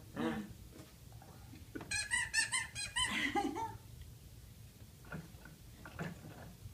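Toy car's squeaky horn pressed repeatedly: a quick run of about six high squeaks about two seconds in.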